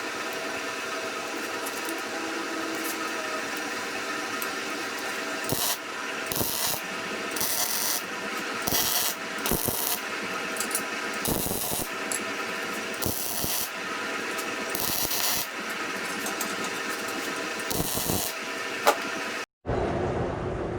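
Arc welding in short separate bursts of crackle, tack-welding drill teeth onto a steel core barrel, over a steady machine hum. The sound cuts out abruptly near the end, and a lower rumble follows.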